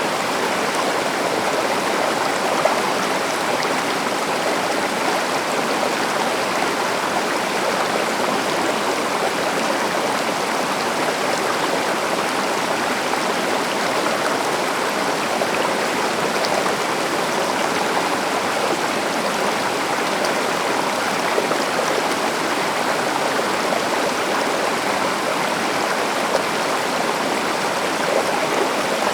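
A stream or small river flowing steadily over rocks, a continuous rushing and splashing of water.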